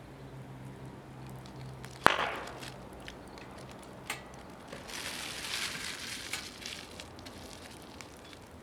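Wood fire of mostly green wood crackling in a fire pit: one sharp, loud pop about two seconds in, a smaller pop about two seconds later, then a spell of hissing crackle.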